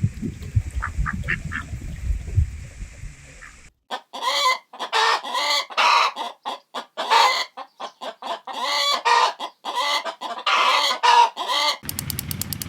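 Poultry calling in quick, repeated short calls, many in a row, starting abruptly after a few seconds of low rumbling background. The calls stop suddenly near the end.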